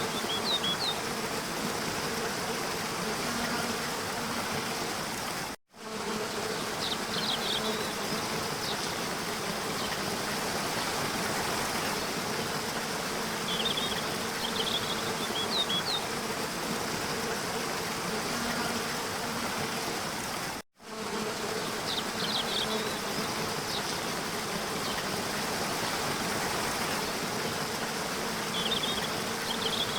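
Steady rushing of a waterfall, with a low buzzing hum and short high bird chirps every several seconds. Twice the sound drops out for a split second, where the recording loops.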